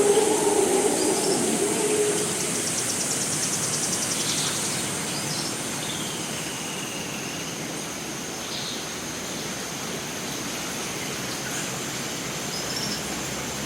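Costa Rican rainforest ambience: a steady hiss of rain or running water under a constant high-pitched insect drone, with scattered short bird chirps and one slow whistled note that dips in pitch about six seconds in. A low, droning animal call is heard at the start and fades out within about two seconds.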